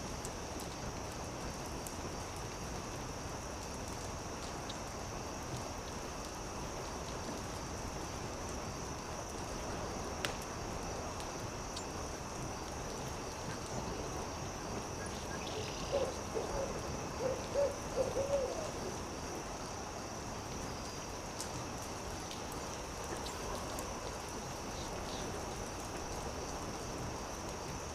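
Campfire crackling with scattered sharp pops over a steady high hiss; a little past the middle an owl gives a quick run of about six short hoots.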